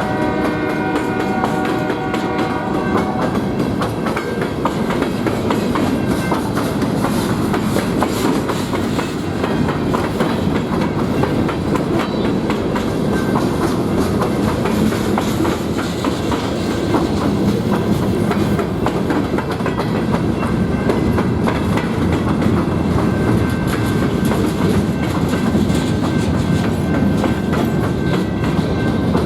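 Freight train cars rolling past, a steady rumble with the rapid clickety-clack of wheels over rail joints. A pitched tone sounds over it and cuts off about three seconds in, and a faint high squeal appears near the end.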